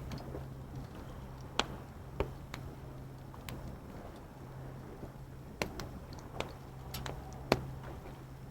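Wood fire crackling in a fire pit, with scattered sharp pops, loudest about one and a half seconds in and again near the end, over a steady low hum.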